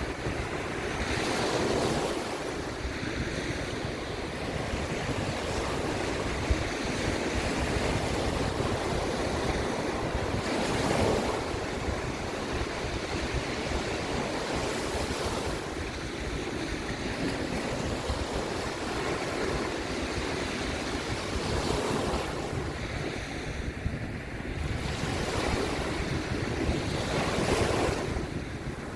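Sea waves washing in and breaking, swelling and easing every few seconds, with wind buffeting the microphone.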